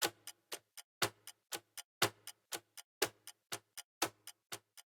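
Clock ticking in a quick, even rhythm of about four ticks a second, with a stronger tick on each second.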